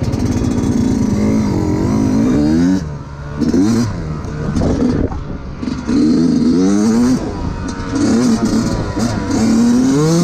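2019 Yamaha YZ125 two-stroke dirt bike engine being ridden, revving up repeatedly through the gears, with the throttle shut briefly a couple of times between pulls.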